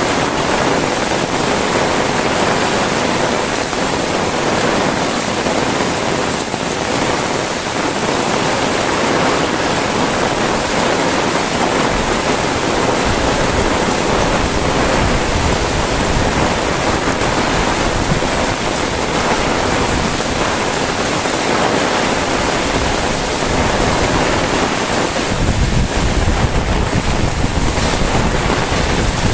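Heavy rain pouring steadily, with wind rumbling on the microphone in gusts, strongest in the last few seconds.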